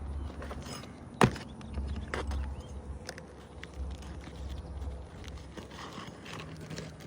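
Tools knocking and scraping on asphalt roof shingles as they are worked loose, with one sharp crack about a second in.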